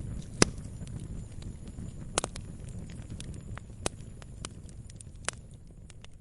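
Wood fire crackling in a fireplace: a low steady rumble of flames under a scatter of small crackles, with four sharper pops spread through, growing a little fainter near the end.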